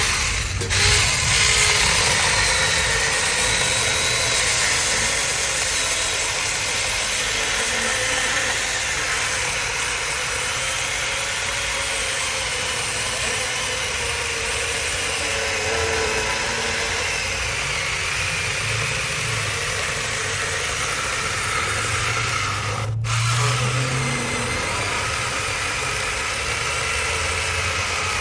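Cordless battery electric chainsaw running steadily at speed, its chain cutting into wood, with a momentary break about 23 seconds in.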